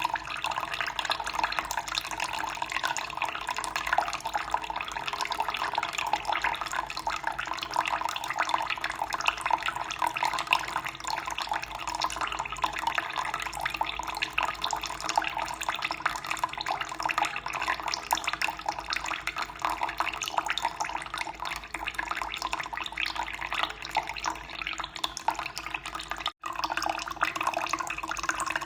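Running water flowing steadily, an even splashing rush with a momentary break about 26 seconds in.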